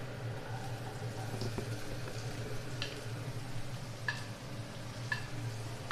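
Chopped garlic and green chillies frying in coconut oil in a pan with a faint, low sizzle, and a few light taps spaced about a second apart.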